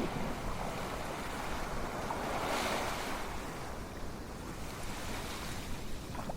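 Ocean waves washing in: a steady hiss of surf that swells to a peak a little before halfway and then eases back.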